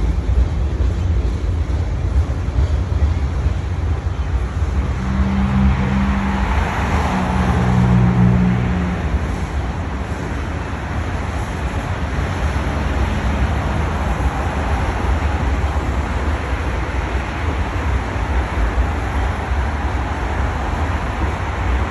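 A long freight train rolling past, its cars giving a steady low rumble and rushing noise, with a few brief low tones sounding between about five and nine seconds in.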